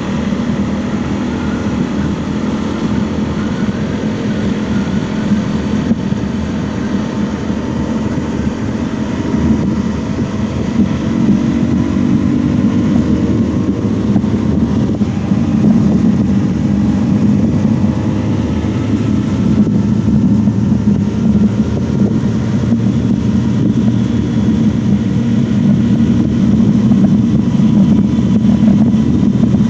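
Honda CRF250L's 250 cc single-cylinder engine running under way, its pitch sliding up and down as the revs change and getting louder toward the end.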